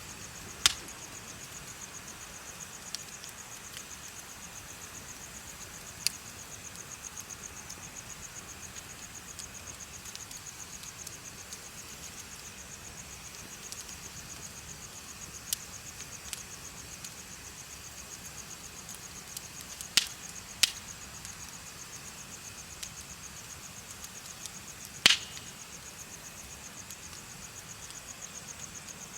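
Insects chirping in a steady, rapid high trill over the crackle of a wood bonfire. Several sharp pops stand out: one about a second in, two close together around twenty seconds, and the loudest near twenty-five seconds.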